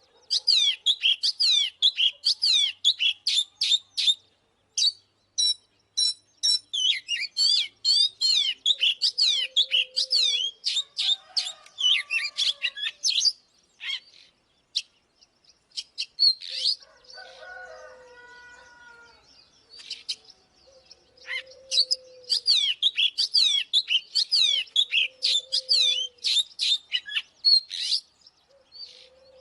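Oriental magpie-robin singing its fast fighting song: long runs of rapid, sweeping high notes, with a pause near the middle and a few lower notes underneath.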